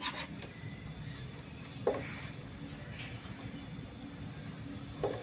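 Dosa sizzling quietly on a hot iron tawa over a gas burner, with a few short taps and scrapes of a metal spatula on the griddle, the loudest about two seconds in.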